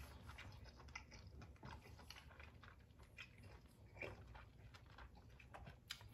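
Faint chewing of a mouthful of shrimp, with soft scattered mouth clicks, the most distinct about four seconds in.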